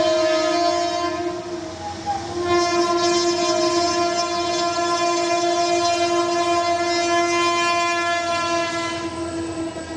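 Train horn blowing a long, steady chord that eases briefly about two seconds in and then sounds again, with the train's low rumble underneath.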